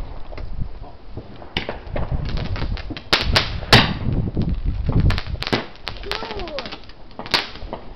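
Garden firework going off in a rapid, irregular string of sharp cracks and pops. It starts about a second and a half in, and the loudest cracks come near the middle.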